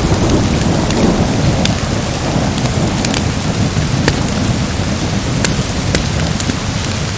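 Steady heavy rain with a low thunder rumble swelling in the first two seconds, and sharp crackles and pops of a wood fire scattered through it.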